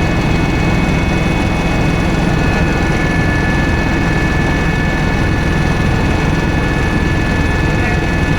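Helicopter running: a steady, loud drone of turbine engine and rotor with a constant high-pitched turbine whine over it.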